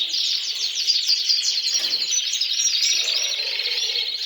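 Domestic canaries singing: a dense run of rapid chirps and trills.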